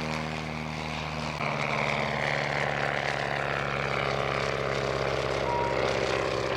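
Piston engine of a WWI fighter replica running. About a second and a half in it grows louder, and its pitch then slowly falls.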